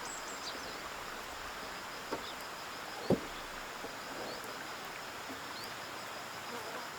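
Insects chirring steadily in the background, with two sharp knocks, the louder one about three seconds in.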